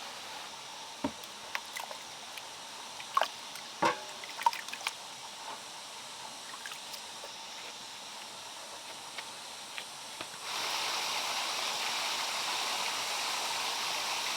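Water trickling and dripping, with scattered small clicks and knocks, then about two-thirds of the way in a sudden switch to a steady, louder rush of flowing water.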